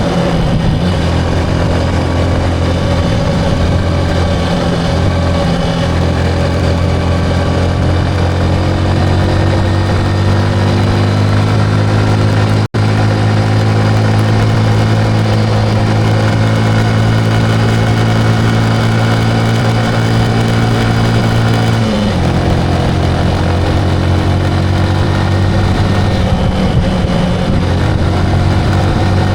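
Motorcycle engine running under way, its pitch climbing slowly through the middle and then dropping suddenly about three-quarters of the way through.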